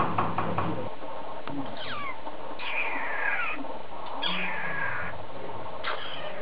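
Cockatiel calling: a quick thin downward sweep, then two longer, raspy calls that fall in pitch, each under a second.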